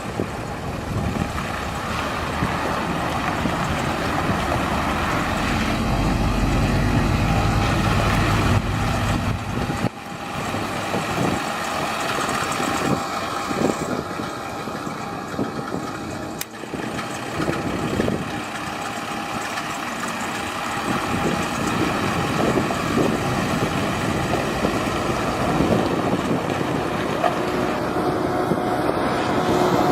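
Freightliner FL60 truck's diesel engine running steadily, with a heavier low rumble for a few seconds about a quarter of the way in.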